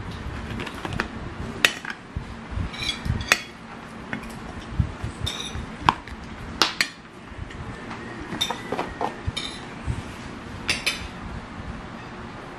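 Dishes and cutlery clinking: a dozen or so irregular sharp clinks, some with a brief high ring.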